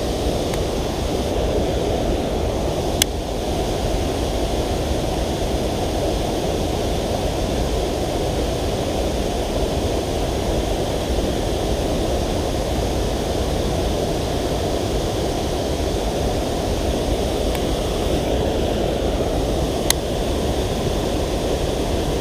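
Steady rush of creek water pouring over a small waterfall, an even noise with no change in level. Two brief sharp clicks stand out, one about three seconds in and one near the end.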